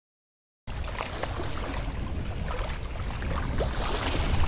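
Boat under way on the water: a steady rumble and rushing noise of wind and water that cuts in abruptly after a moment of silence, with faint small splashes in it.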